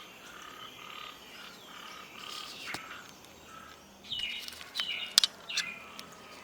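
Outdoor nature ambience of animal calls: a short call repeating about twice a second, then several louder, sharp bird chirps in the second half.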